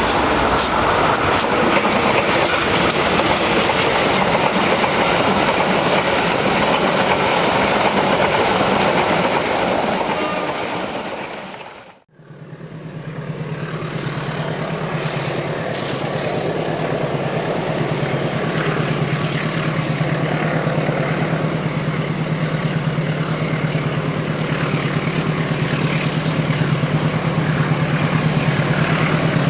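A passenger train passing close by, its wheels clattering over the rail joints. After a sudden cut, a diesel locomotive is heard with a steady engine drone, growing louder as it approaches.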